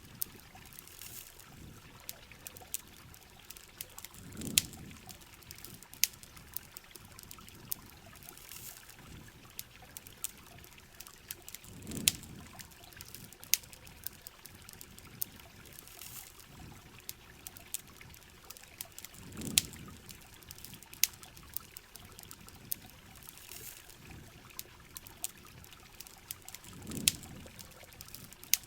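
Steady hiss of heavy rain with frequent sharp pops and crackles from a campfire, and a soft low whoosh that comes back about every seven and a half seconds.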